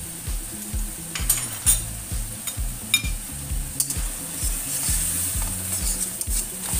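Shrimp and tomato sizzling in hot oil in a stainless steel wok while a metal spatula stirs, clinking and scraping against the pan several times.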